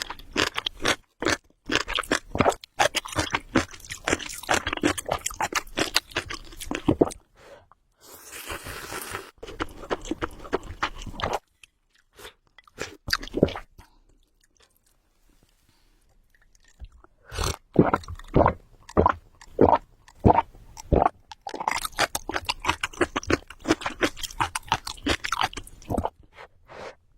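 Close-miked eating sounds of spicy ramen: wet chewing and smacking in quick runs. The chewing stops for a few seconds about halfway through.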